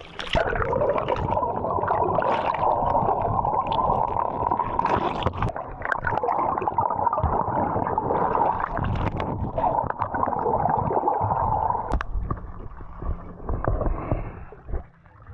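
Stream water sloshing and gurgling close to the microphone for about twelve seconds, then dying down into a few scattered knocks and splashes.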